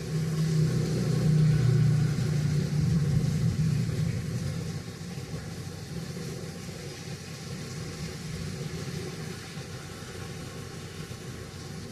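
A low rumble that is loudest in the first four seconds or so and then dies down, over a steady hiss.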